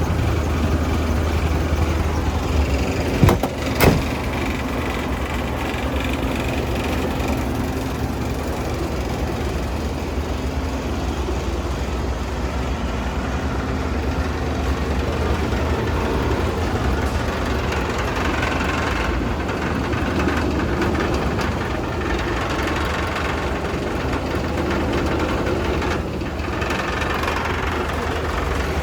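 Diesel engine of a MAN 26.272 concrete mixer truck idling steadily, with two sharp knocks close together a few seconds in.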